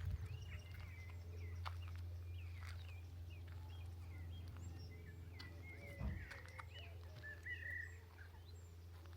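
Small songbirds chirping and trilling in short, quick notes, over a steady low rumble, with a single dull thump about six seconds in.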